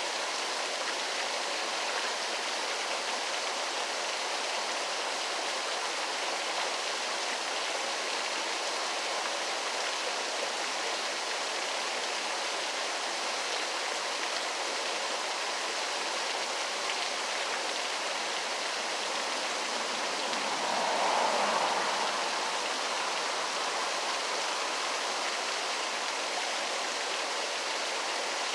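Waterfall: steady rushing and splashing of falling water, with a brief swell about three quarters of the way through.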